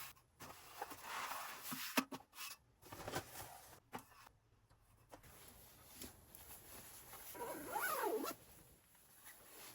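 Rustling and small clicks of gear being handled, then a zipper drawn along near the end, rising and falling in pitch as it moves.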